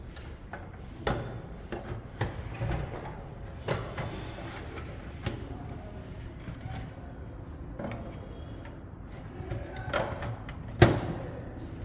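Computer power supply being slid into a desktop PC case along its rails: scattered light metal scrapes and clicks, with one sharp knock near the end.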